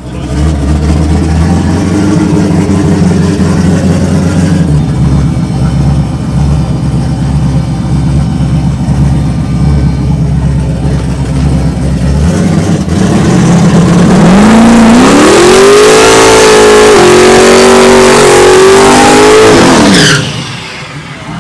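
Drag-racing street truck's engine rumbling loudly at low revs. About fourteen seconds in it revs up and holds high revs for about five seconds over a loud hiss, then drops away suddenly: a burnout to heat the tyres before a pass.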